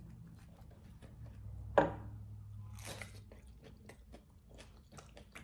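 Close-up eating sounds of a chicken lettuce wrap: wet chewing with many small mouth clicks and crisp lettuce crunching, plus one much louder sharp crunch about two seconds in.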